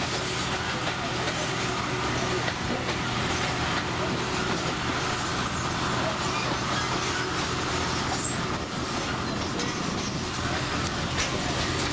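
St. Kitts Scenic Railway tourist train running along the line, heard from its open-air upper deck: a steady rush of wheel, track and wind noise over a low, even hum.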